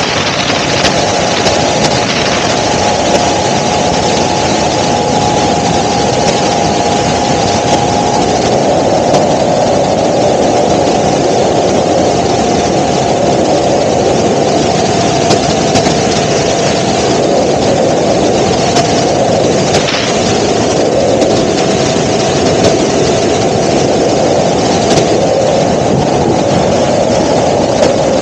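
Helicopter in flight: loud, steady engine and rotor noise with a constant whine that dips slightly in pitch near the end.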